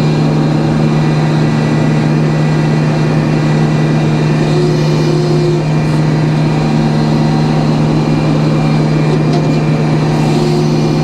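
A sawmill running with a steady, loud machine hum. A brief higher tone rises over it twice, about four seconds in and again near the end.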